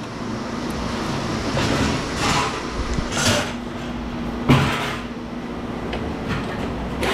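Work noise from taking apart a metal light fixture with a nut driver: rattling and scraping bursts over a steady hum, with a sharp metal knock about four and a half seconds in.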